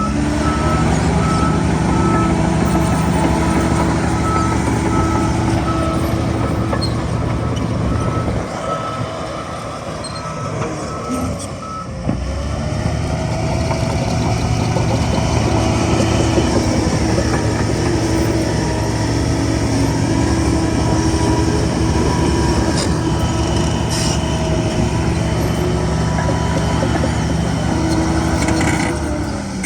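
Heavy diesel earthmoving machine running under load, with a reversing alarm beeping steadily for about the first eleven seconds. The engine eases off around nine seconds in and comes back up about twelve seconds in.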